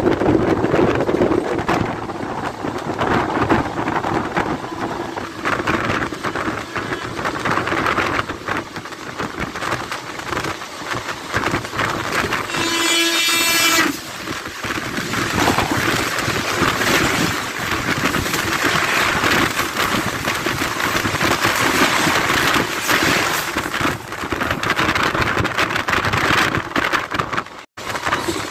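Indian Railways express train running at speed, heard from an open coach door: wind rush and the rattle of wheels on rail joints. About halfway through, a train horn sounds for about a second and a half as an oncoming train on the adjacent track rushes past close by. The sound cuts out for an instant near the end.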